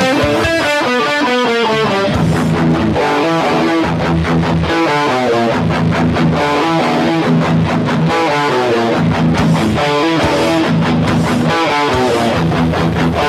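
Electric guitar through a distortion pedal playing a rock intro riff: a quick run of picked notes, then repeated low notes under a higher melodic line.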